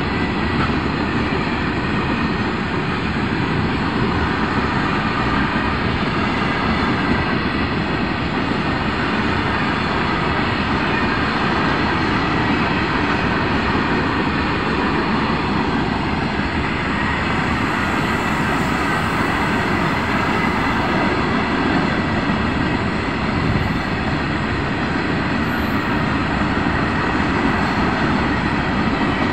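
Loaded freight train of open-top wagons passing close by: a steady rumble and rattle of wheels on the rails that keeps up without a break.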